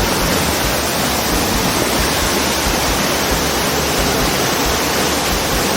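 Waterfall rushing close by: a loud, steady, unbroken noise of falling water, near enough that its spray reaches the camera.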